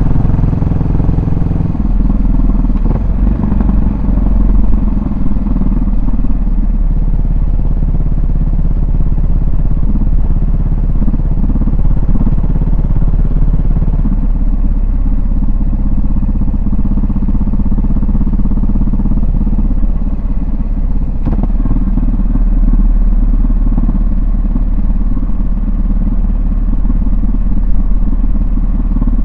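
Yamaha SR400's single-cylinder four-stroke engine running, its exhaust note steady and loud, shifting about two seconds in and again about twenty-one seconds in.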